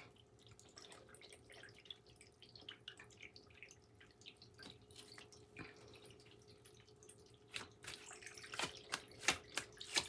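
Tarot cards being handled: faint, irregular light clicks and taps that come faster and louder in the last couple of seconds.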